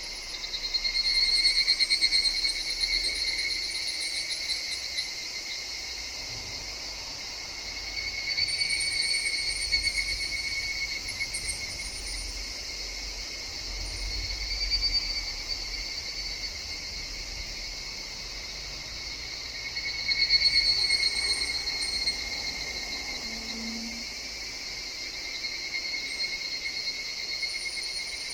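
Higurashi (evening cicadas) calling in waves over a steady high insect chorus. The calls swell and fade about four times, each swell lasting a few seconds.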